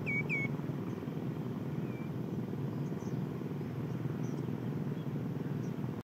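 Two short, clear whistled bird calls near the start, each dropping then holding its pitch, a fainter call about two seconds in and a few faint high chirps later, all over a steady low rumble.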